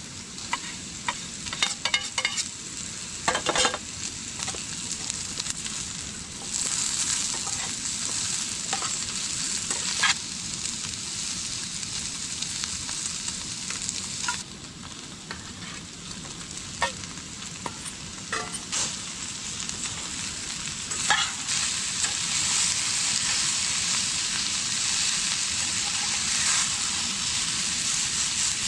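Potato and paneer cubes sizzling as they fry in a steel pan on a gas camping stove, with a metal spoon clinking against the pan and bowl several times in the first few seconds. The sizzle swells about six seconds in, dips briefly past the middle, and grows louder in the last third.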